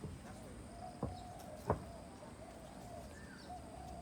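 Birds calling: a run of short, repeated, arching calls, with faint higher chirps. Two sharp clicks come about two-thirds of a second apart, and the second is louder.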